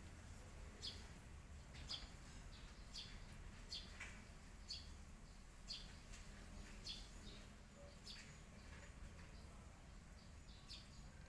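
Faint short bird chirps, repeated about once a second and irregularly spaced, over a low, steady background rumble.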